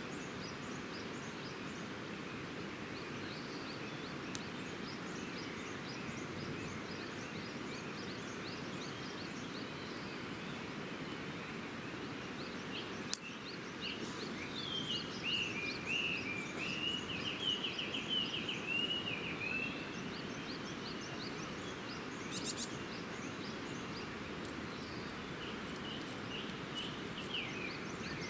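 Small birds chirping over a steady background rush. About halfway through comes a single sharp pop. Then one bird gives a louder run of quick repeated notes for about five seconds.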